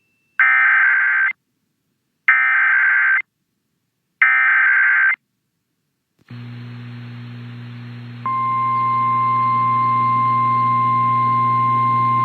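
Emergency Alert System tornado warning coming over the radio: three bursts of warbling SAME digital header data, each about a second long and a second apart, signalling the start of the alert. Then a low hum starts, and about eight seconds in the steady, loud National Weather Service 1050 Hz attention tone comes in.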